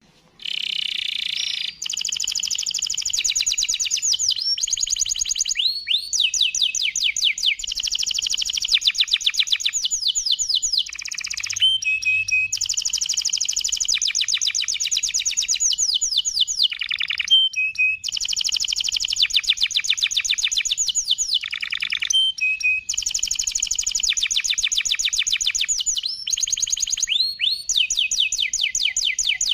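Domestic canary singing a long, almost unbroken song of fast, high-pitched trills and rolls, with only brief pauses between phrases.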